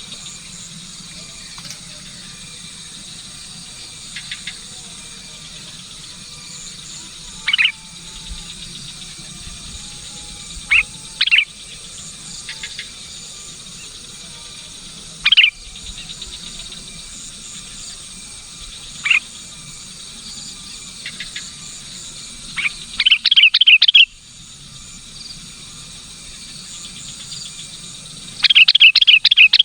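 Sooty-headed bulbul calling: scattered single sharp notes, then two rapid chattering bursts near the end, the loudest sounds. Under them runs a steady insect chorus.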